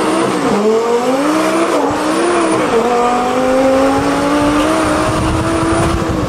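Twin-turbo Lamborghini engine pulling through the gears, heard from inside the cabin. Its pitch climbs and drops back at gear changes about half a second, two seconds and three seconds in, then rises slowly and steadily.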